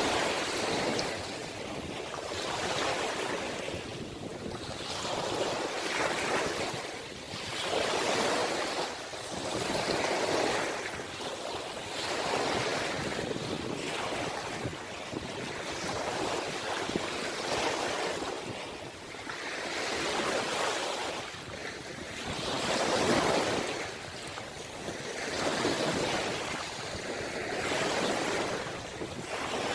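Ocean waves breaking and washing on the shore, the surf swelling and falling back every two to three seconds.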